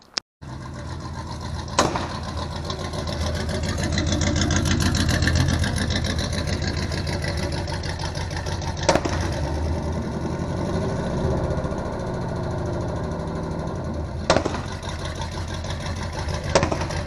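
1970 Chevrolet C10 pickup's engine running loud through a freshly built 3-inch exhaust with headers, Black Widow mufflers and side exits. It swells a few seconds in, and four sharp clicks break through the engine sound.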